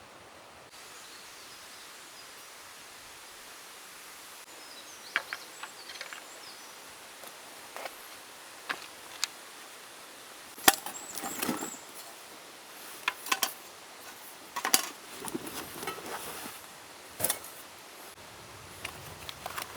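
Scattered sharp knocks and clicks of wood or camp gear being handled, irregular rather than a steady rhythm, with rustling between them; the loudest knock comes about halfway through.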